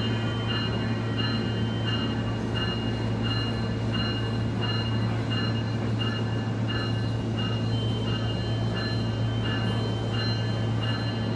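Riding aboard a SMART diesel multiple-unit train: a steady low hum from the running railcar, with a bell ringing evenly about one and a half times a second.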